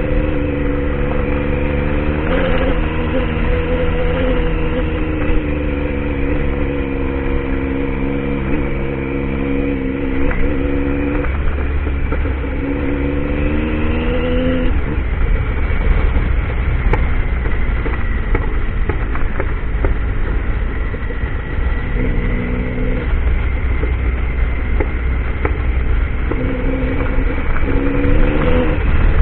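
Triumph Tiger motorcycle engine running under way, over a steady low rumble. Its note holds for the first half, drops away about halfway through, and returns briefly twice near the end.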